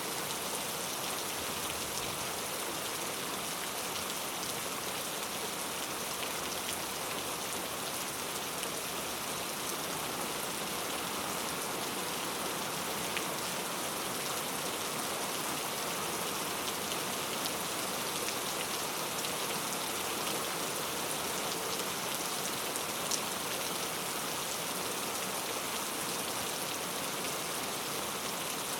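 Steady rainfall, with the close patter of drops on a surface and a few sharper individual drop ticks.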